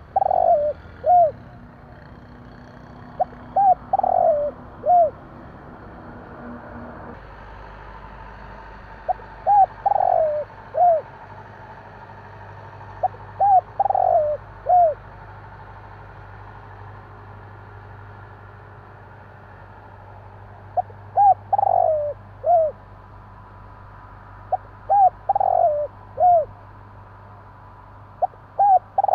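Spotted dove cooing: about seven repeated phrases, each a few short coos leading into a longer, louder coo and a short final note, coming every few seconds over a low steady hum.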